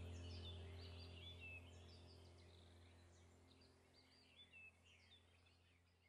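Faint bird chirps and twitters over a low steady hum, all fading out gradually.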